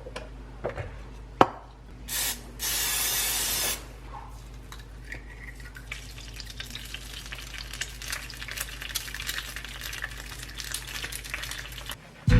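A few sharp clicks, then two short bursts of hiss about two and three seconds in, followed by a steady light crackle of many small ticks.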